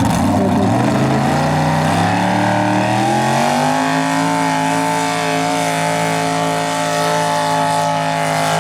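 Mini rod pulling tractor's engine revving up, rising steadily in pitch for about three seconds and then holding at high revs.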